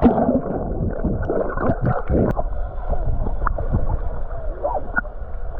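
Muffled underwater sound of lake water gurgling and sloshing around a submerged camera, with a few small knocks.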